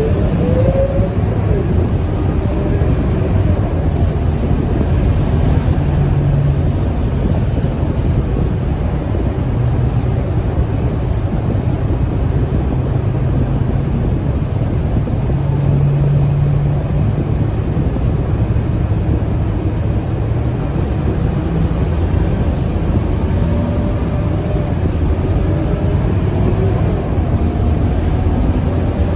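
Scania K230UB city bus heard on board while running, a steady engine drone with road noise. A faint rising whine near the start and again near the end as the bus pulls away and gathers speed.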